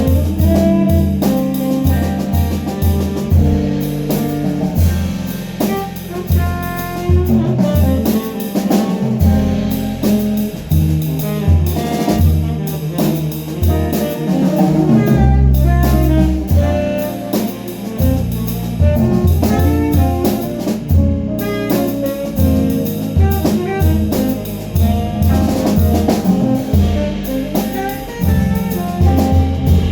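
Jazz band playing an instrumental passage, with a drum kit and a strong bass line under the melody.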